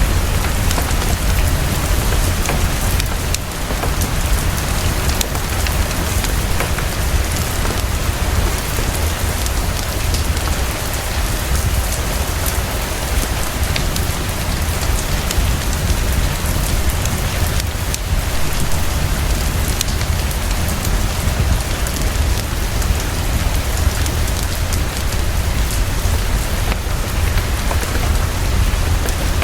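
Heavy, fast, steady rainfall with a deep constant rumble underneath. Scattered faint ticks run through it, and soft fireplace crackle is mixed in.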